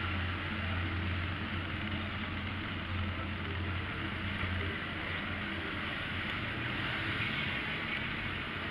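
Street traffic noise with a steady hiss and a vehicle engine's low hum, which fades about halfway through.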